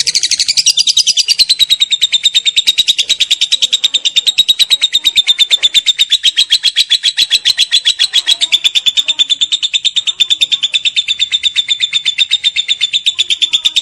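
Lovebird singing a long 'ngekek' chatter: a fast, unbroken trill of shrill notes, about ten a second, held without a pause.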